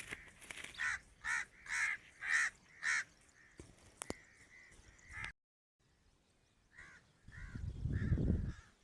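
Grey francolin (desi teetar) calling: a run of harsh, repeated notes about twice a second. After a short break, a second run of calls comes in, and a low rumble, like wind on the microphone, rises under it near the end.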